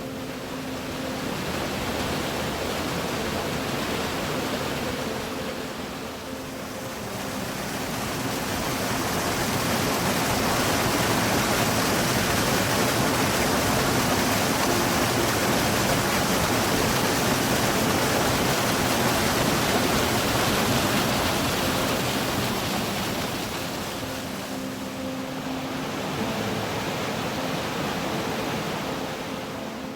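Steady rushing water, a stream or small waterfall, swelling louder in the middle. Faint music sits underneath near the start and near the end.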